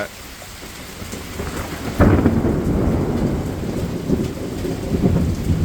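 Thunder over steady rain: a low rumble builds, then a sudden loud clap about two seconds in that rolls on as long, heavy rumbling.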